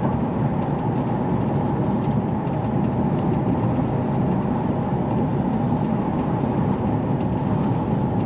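Steady in-cab drone of an HGV lorry driving along: engine and road noise at an even level.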